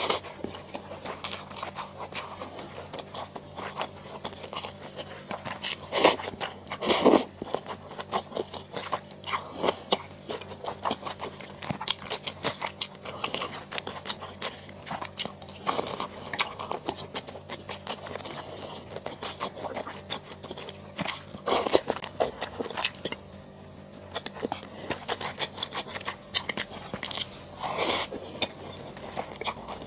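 Close-up eating sounds of a person chewing and biting into mala xiang guo: irregular wet crunches and smacks, with a few louder bites scattered through.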